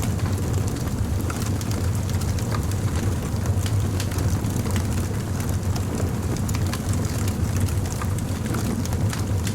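Crackling wood fire burning steadily: a low continuous rumble of the flames with frequent small, sharp crackles and pops of burning wood.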